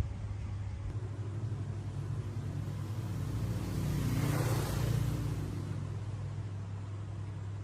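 A steady low mechanical hum, with a rushing noise that swells and then fades about halfway through.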